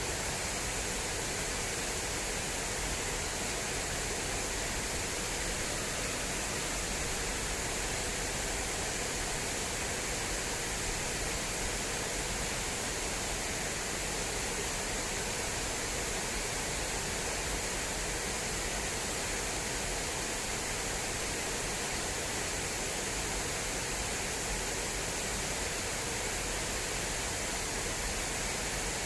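Water rushing steadily along an irrigation channel, an even hiss with no breaks or changes.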